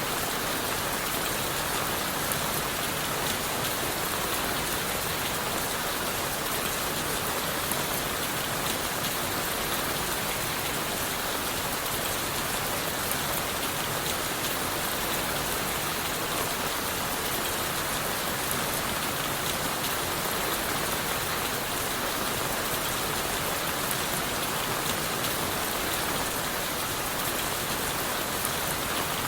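Steady rain falling on leaves and wood, a constant even hiss dense with individual close drop hits. It does not change in strength.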